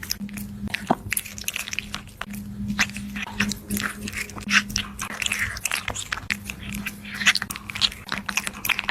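A kitten chewing and crunching food, with many quick, irregular bites and clicks.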